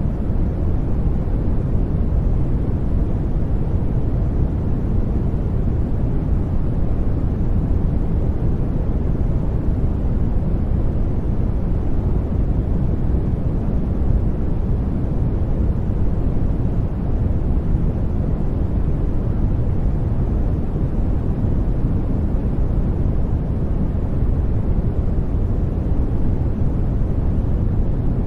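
Steady synthetic noise of the kind sold as white noise, an even, unbroken hiss weighted heavily toward the bass so that it sounds deep and rumbling rather than bright.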